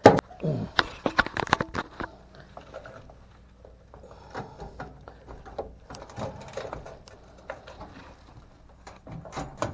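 A 1/4-inch ratchet working a screw out of a dryer's sheet-metal panel: a loud click, then a quick run of irregular clicks and knocks for about two seconds. After that come sparser clicks and scraping, with a few more clicks near the end.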